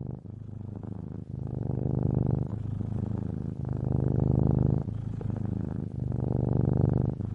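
A cat purring: a continuous low rumble with short dips about once a second.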